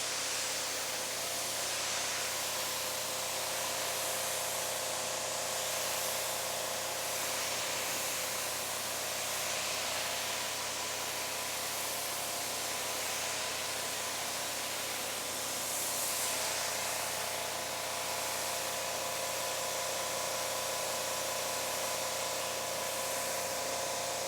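Pressure washer spraying water in a steady hiss while rinsing a car's hood, with the machine's steady hum underneath.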